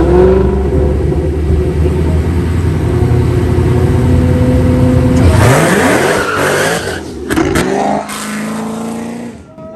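Two street-race vehicles, a Jeep Grand Cherokee Trackhawk and a twin-turbo Ford F-150, running loud and steady while staged, then launching hard about five seconds in. Engine pitch climbs sharply with a burst of tyre and exhaust noise, surges again, then falls away and fades as the vehicles pull off down the road.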